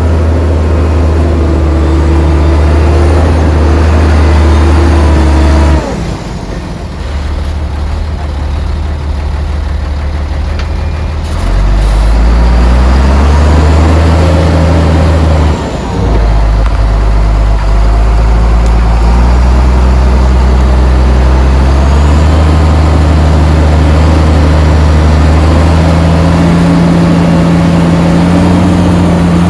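Heavy diesel engine of earthmoving machinery running loud under working load. It drops to a lower, quieter speed about six seconds in, climbs back up around twelve seconds, dips briefly near sixteen seconds and steps up again a few seconds later.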